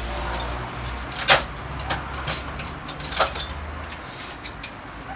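Spark plugs and a plug socket clinking and clicking as they are handled, with a few sharp knocks, the loudest about a second in. A low steady rumble under them stops about four seconds in.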